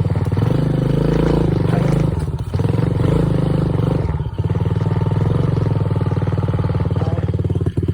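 Dirt bike engine running steadily while riding, dropping briefly three times as the throttle eases off.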